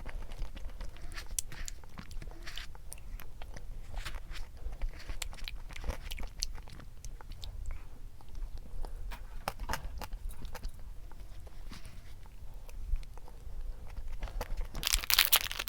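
Close-miked mukbang eating: irregular small bites and chewing of a snack. A burst of packaging crinkling comes near the end.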